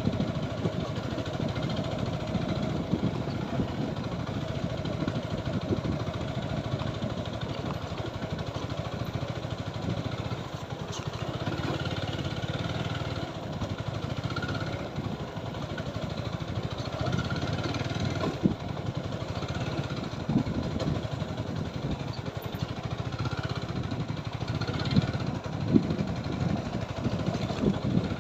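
TVS Apache 4V motorcycle engine running at a steady pace while riding over a rough dirt track, with a few sharp knocks along the way.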